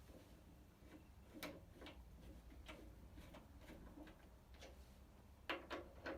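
Faint, irregular clicks and light taps of handling tools and hardware, with a louder tap about a second and a half in and a quick cluster near the end.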